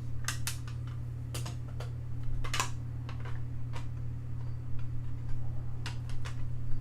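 Scattered light clicks and taps at an irregular pace, a few sharper than the rest, the loudest about two and a half seconds in, over a steady low hum.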